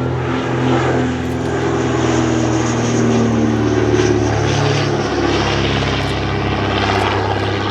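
Piston engines and propellers of vintage twin-engined aircraft flying past, a steady multi-tone drone whose pitch drops about five seconds in as they go by.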